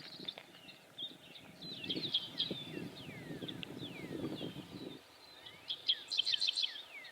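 Several grassland birds singing at once, among them dickcissels: many short down-slurred chirps and, about six seconds in, a quick run of sharp repeated notes. A low rumble sits under the song for a few seconds in the middle.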